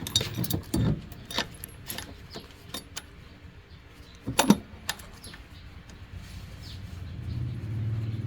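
Metal clinking and knocking from tools on metal machine parts, with one sharp strike about halfway through. Near the end a low hum builds and then cuts off suddenly.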